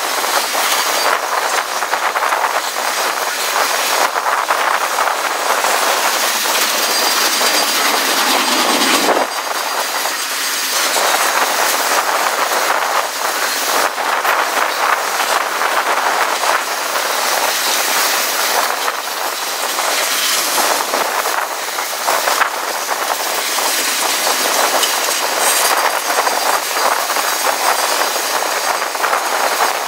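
Freight cars of a passing train rolling by, lumber-loaded flatcars and then tank cars: a steady rumble and hiss of steel wheels on rail, with a run of clicks as the wheels cross the rail joints.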